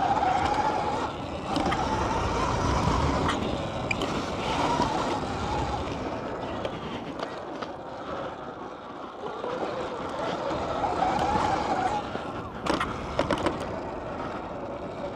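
Dirt bike ridden around a dirt track, its drive pitch rising and falling with the throttle over wind and ground noise, with a few sharp knocks near the end.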